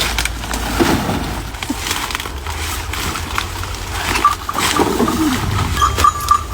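Rustling and crunching of corn ears and sacks being handled, with scattered small clicks over a low steady rumble. A steady high-pitched tone starts about two-thirds of the way in.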